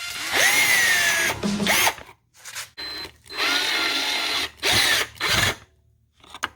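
Power drill-driver running in several short bursts, its whine rising in pitch as each burst starts.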